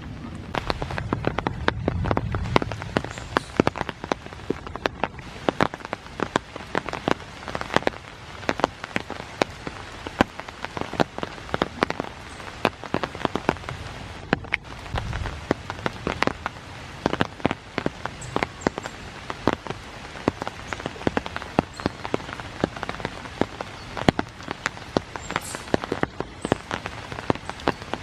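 Rain falling steadily, with many sharp, close drop strikes several times a second over a fine patter. A brief low rumble comes about two seconds in and again in the middle.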